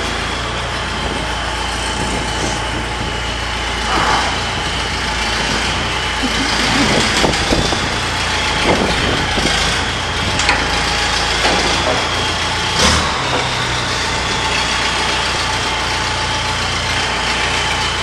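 Motor vehicle engine running steadily with a faint high whine, and a few scattered knocks and clunks in the middle.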